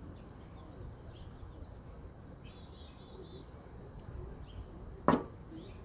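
Faint bird chirps over a low background hum, with one sharp tap about five seconds in.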